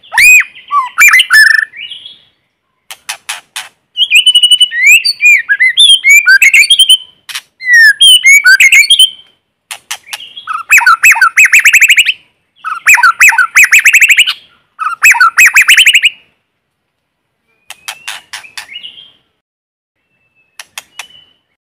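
White-rumped shama singing: loud, varied phrases of whistled notes and pitch glides, fast rapid-fire trills, and sharp clicking notes, with short pauses between phrases.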